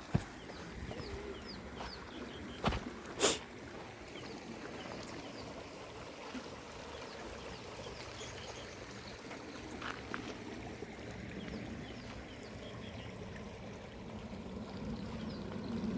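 Small birds chirping in quick short calls over a steady outdoor hiss, with two sharp knocks about three seconds in.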